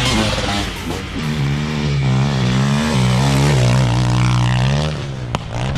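Motocross dirt bike engine running hard and revving, its pitch rising and falling. A single sharp click near the end.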